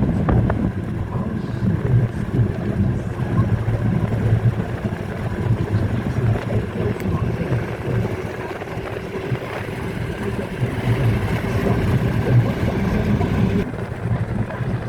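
A matatu minibus engine and road noise heard from inside the cabin: a steady low rumble with wind noise.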